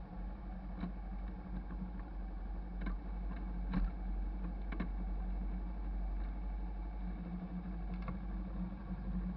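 Hyosung GV650's V-twin engine running steadily at an even, unchanging pitch, with a few light clicks over it.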